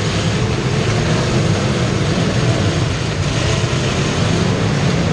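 Racing vehicle's engine running steadily under heavy noise, with no clear change in pitch.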